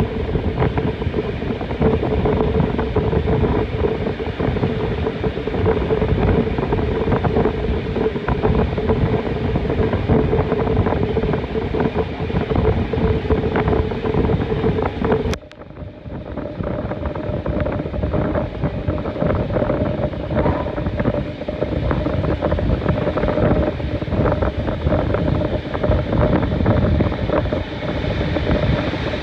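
Train running at speed over suburban track, heard from an open carriage window: steady rumble and clatter of steel wheels on rails, with wind rushing onto the microphone. The sound drops out briefly about halfway through, then carries on with a slightly higher steady hum.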